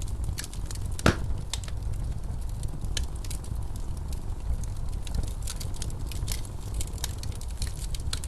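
Wood fire in a fireplace crackling, with scattered sharp pops and one loud pop about a second in, over a steady low rumble of blizzard wind.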